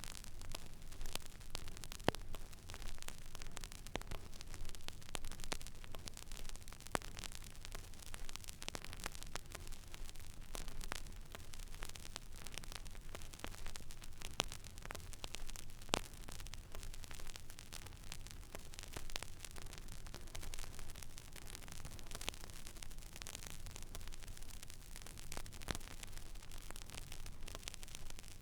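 Stylus tracking an empty vinyl record groove: steady surface hiss with irregular crackles and a few sharper pops, over a low steady hum.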